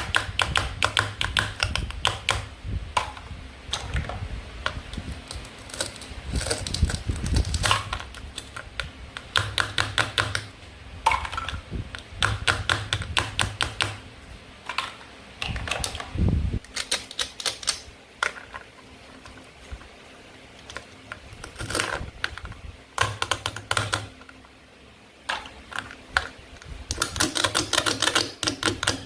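Close-miked handling of hard plastic toy food pieces, with dense runs of sharp clicks and taps and a dull thump about 16 seconds in.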